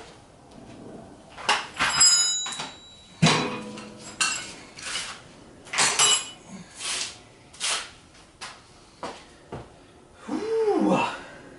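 A series of sharp metal clanks and knocks, a few ringing briefly, as an engine is worked into place on a shop engine crane. A breathy 'whew' near the end.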